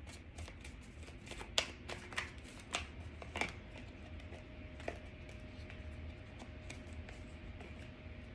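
Tarot cards being shuffled and handled: a run of soft card clicks and rustles, with several sharper snaps in the first few seconds.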